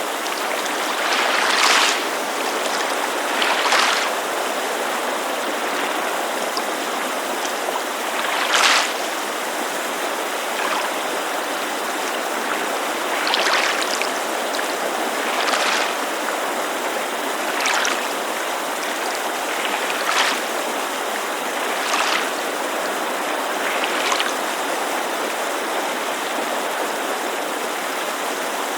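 Lake water lapping against the shore in soft splashes about every two seconds, over the steady rush of a mountain creek. The lapping stops a few seconds before the end, leaving only the creek.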